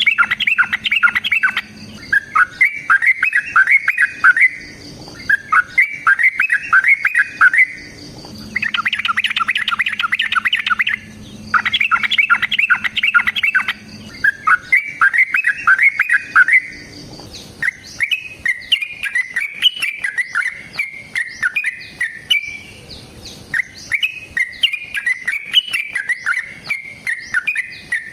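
Yellow-vented bulbul singing: repeated phrases of rapid chattering notes, each two to three seconds long, turning to looser, warbling phrases after about 17 seconds.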